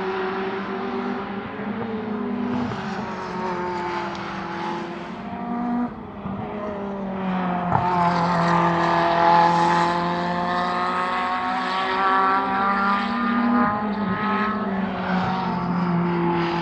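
Several race car engines running at once, their pitches holding and then sliding up and down as they rev. A single sharp crack cuts in just under eight seconds in.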